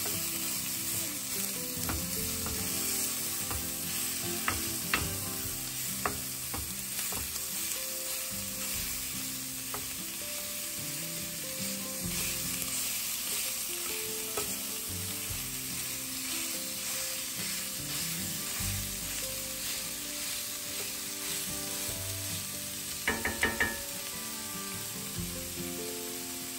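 Chorizo sizzling as it fries in oil in a hot cast iron skillet, with a wooden spoon scraping and tapping the pan as it breaks the meat up. A quick run of sharper taps comes near the end.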